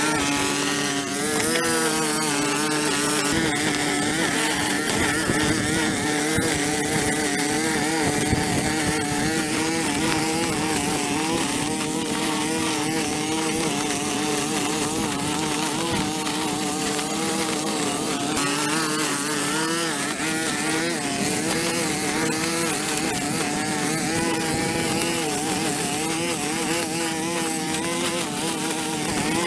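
Small petrol engine of a handheld lawn power tool running continuously under load, its pitch wavering up and down with the throttle.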